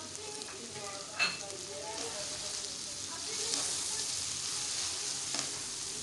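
Chicken pieces and freshly added ground spices sizzling in hot oil as a spatula stirs them, frying the masala. One sharp clink of the utensil against the pan comes about a second in.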